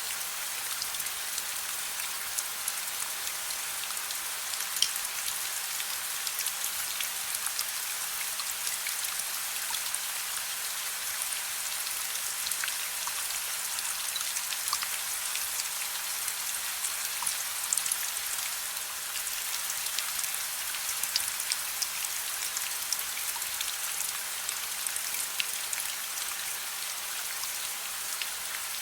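Steady soft rain: an even hiss with many separate drops ticking irregularly through it.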